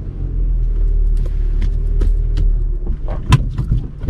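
Vauxhall Corsa engine running steadily at low speed, heard from inside the cabin, as the car is manoeuvred into a parking bay. A few sharp clicks sound through the middle, and a louder knock comes a little after three seconds in.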